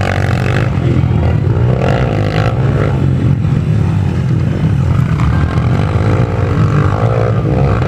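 Dirt bike engines running and revving over a steady low rumble.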